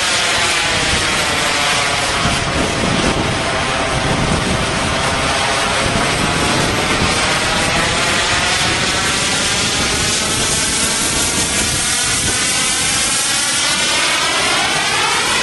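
Radio-controlled model jet's engine running steadily at high power in a hover, a loud continuous rushing roar. Its tone slides slowly down and then sweeps upward near the end as the jet shifts position.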